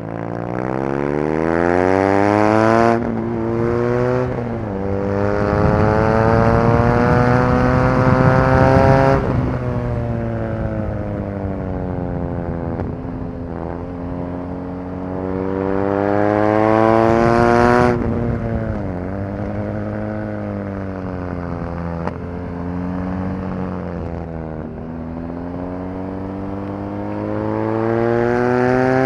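BMW R nineT Racer's 1170 cc air/oil-cooled boxer twin under hard track riding: engine note climbing in pitch as it accelerates, breaking abruptly at each upshift, and dropping away with dips as the throttle closes and it is shifted down, then pulling up again.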